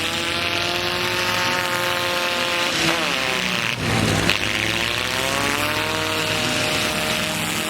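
Demolition-derby truck engines revving hard, their pitch sagging and climbing again, with a bang a little past the middle.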